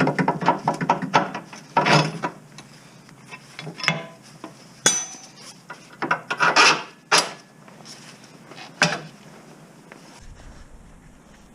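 Irregular clicks, knocks and rubbing scrapes of tools and parts being handled during car repair work. They are busiest at first, come in a few separate bursts through the middle, and go quiet near the end.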